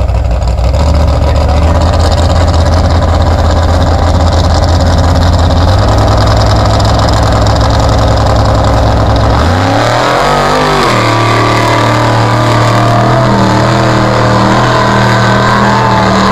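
Engine of a mud truck on tractor tires running hard under load. Its pitch sweeps up sharply about ten seconds in, then holds at higher revs.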